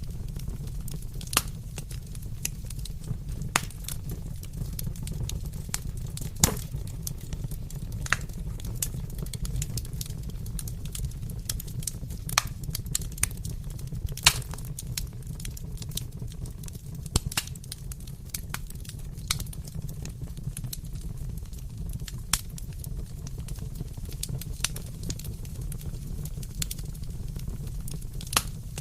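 Wood fire burning in a fireplace: a steady low rumble with irregular sharp crackles and pops throughout, a few of them louder snaps.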